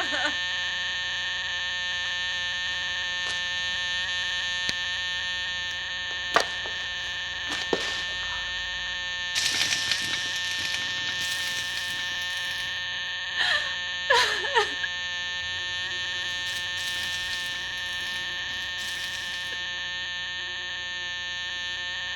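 A harsh, steady electronic buzzing drone with a few sharp clicks and some short falling swoops around the middle.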